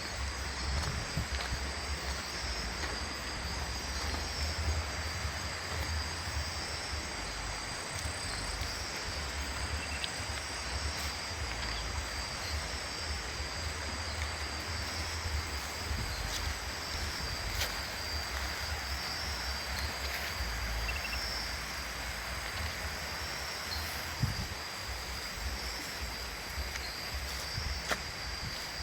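Outdoor ambience: a steady insect drone high in pitch, with low wind rumble on the microphone and a few faint clicks.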